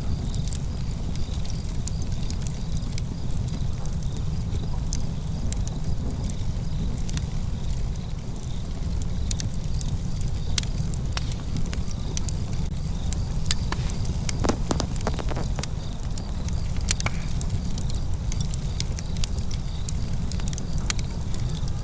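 Fire crackling, with frequent sharp pops over a steady low rumble.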